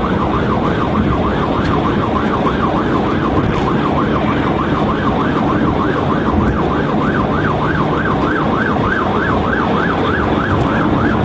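Police siren on yelp, rising and falling quickly about three times a second, over the steady engine and road noise of a cruiser driving at highway speed during a pursuit.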